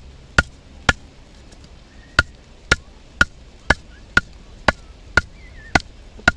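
Batoning: a Mora knife's spine struck again and again with a baton to drive the blade into a hard log, sharp knocks about two a second, each with a short metallic ring. There is a brief pause near the start. The wood is too hard to split readily.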